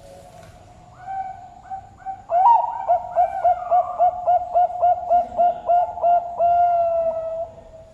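Zebra dove (perkutut) cooing. A loud rising opening note comes after a soft start, then a quick run of about a dozen short coos, about three a second, ending in one long held coo.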